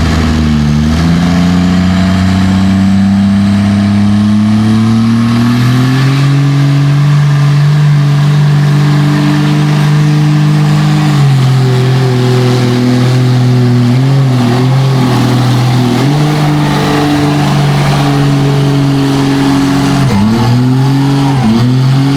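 Mega truck engine pulling a sled under heavy load: the revs climb over the first several seconds, then hold high with a few brief dips and recoveries.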